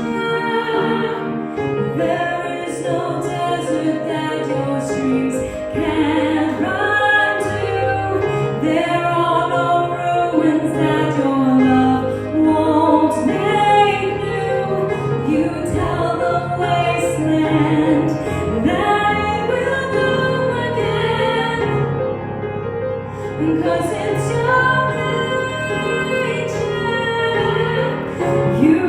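A woman singing a contemporary worship song over sustained instrumental accompaniment.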